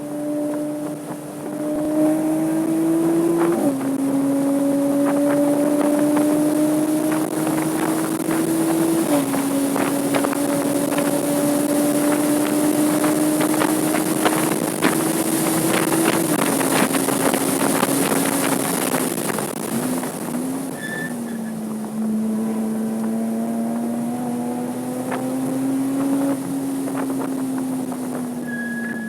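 Porsche 987.2 Cayman S flat-six engine under hard acceleration on track. The engine note climbs steadily and drops sharply at three upshifts. Then it falls away with a couple of quick throttle blips on the downshifts, pulls up again and eases off near the end. Wind and road noise run underneath.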